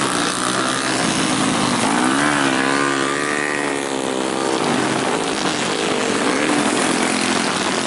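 Grasstrack racing motorcycles running on the circuit, engines revving up and down as they pass, one passing close with a rising then falling engine note about halfway through.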